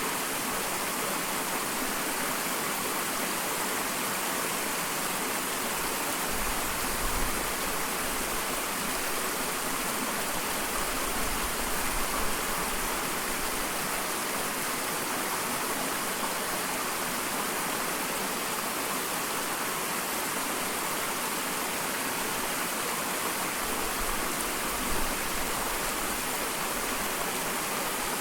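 Small waterfall: water falling and splashing in a steady rush, with a few brief low surges.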